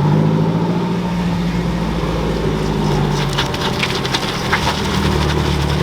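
A Nissan S-chassis drift car's engine running at low revs as it rolls by, its note dropping lower near the end. A rapid crackling runs through the middle.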